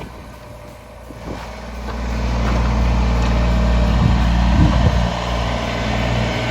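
A vehicle engine running steadily, growing louder about two seconds in.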